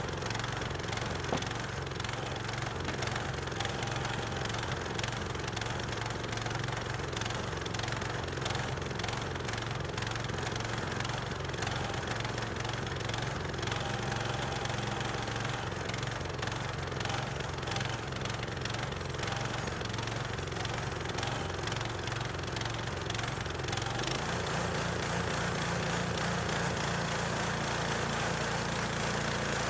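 Gasoline engine of a small Harbor Freight bandsaw mill running steadily; its note changes about three-quarters of the way through.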